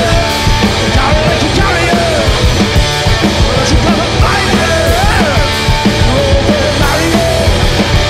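Garage-punk rock duo playing live: loud, dense band music, with a melodic line sliding up and down over a steady low end.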